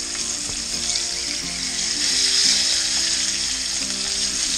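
Flour-breaded grouse pieces sizzling in shallow oil in a frying pan as they are turned over with tongs, the sizzle swelling about two seconds in. Background music plays under it.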